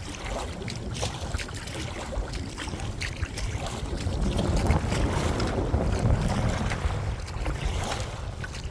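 Wind buffeting the microphone as a low rumble that swells through the middle, over kayak paddle strokes splashing and dripping in very shallow water, the blade catching mud as much as water.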